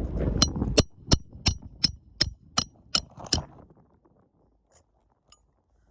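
Hammer driving roofing nails back into an asphalt shingle: a quick run of about nine sharp strikes, roughly three a second, that stops after about three and a half seconds. A rumbling handling noise comes first, as the phone is set down.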